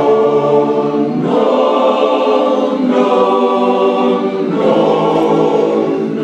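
A cappella chorus singing sustained four-part barbershop chords, moving to a new held chord about every one and a half seconds.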